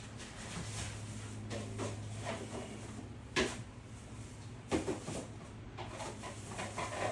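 Knocks and clatter of tools and parts being handled during motorcycle maintenance, with two sharper knocks about three and a half and five seconds in, over a steady low hum.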